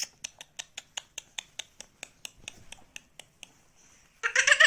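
A rapid run of light dry clicks, about five a second, then near the end a loud harsh squawk from a pet green parrot.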